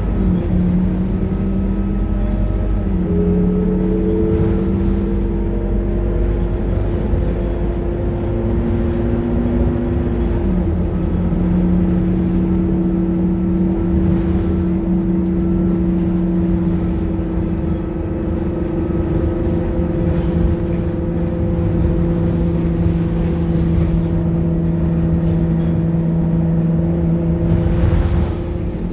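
Scania K230UB bus engine and drivetrain running on the move, with a steady rumble and a whining tone that steps in pitch about half a second in, around three seconds and around ten seconds in, then holds steady.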